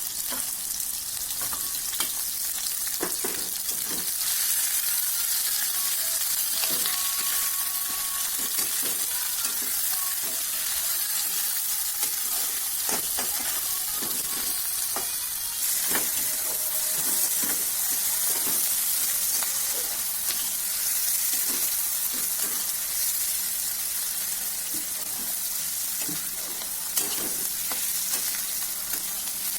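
Food frying in hot mustard oil in a pan: a steady sizzle, with scattered knocks of a utensil stirring against the pan.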